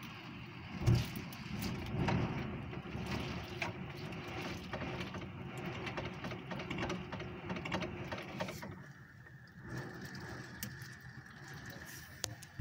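Heavy rain and gusty wind against a window, with many small ticks of drops striking the glass and a dull bump about a second in. About two-thirds through the sound turns duller and a thin, steady high whistle comes in.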